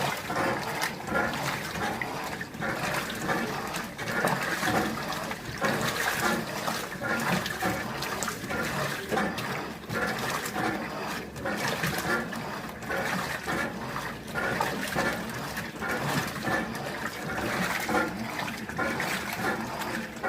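Water sloshing and churning in an Electrolux Turbo Economia 15 kg top-loading washing machine as it works a load of towels, the swishing swelling and dipping about once a second.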